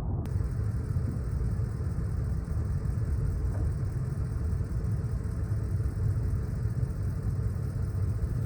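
Pickup truck driving through fresh snow, its engine and tyres making a steady low rumble.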